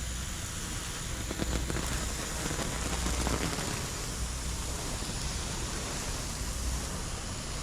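A bundle of sparklers burning all together, giving a steady fizzing hiss with a few faint crackles.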